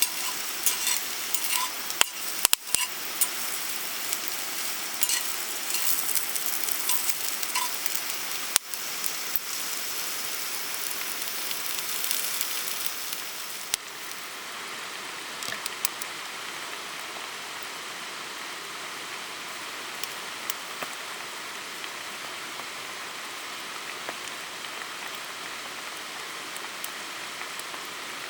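Food sizzling and frying in a pan, with a few sharp clicks like utensils against the pan. Just before halfway it gives way to a softer, steady hiss with scattered faint ticks.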